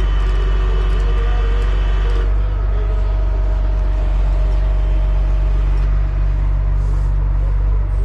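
Heavy wrecker's diesel engine running steadily during a winch recovery, with a higher steady whine over it that stops about two seconds in.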